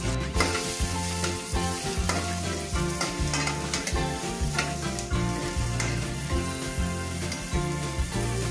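Onions and garlic sizzling in butter in a steel wok while a metal spatula stirs and scrapes them around the pan, over background music.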